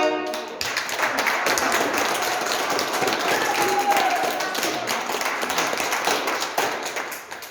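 An accordion's last chord cuts off, then an audience applauds steadily for about seven seconds, the clapping fading out at the end.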